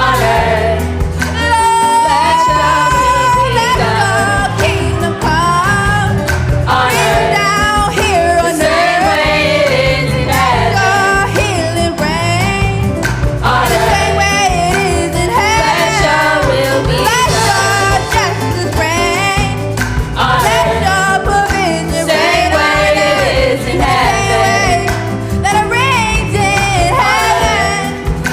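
Live gospel worship music: a lead voice singing long, sweeping runs that slide up and down in pitch over a steady band accompaniment.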